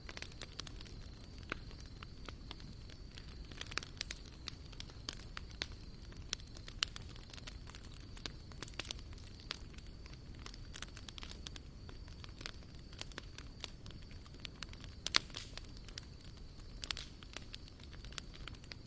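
A Swedish torch log fire crackling, with frequent irregular sharp pops over a steady low rush of the flames.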